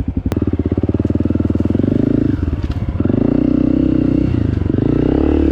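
Honda CRF 250 four-stroke trail bike engine running under the rider, its note dropping and picking up again a few times as the throttle changes. A sharp click sounds just after the start.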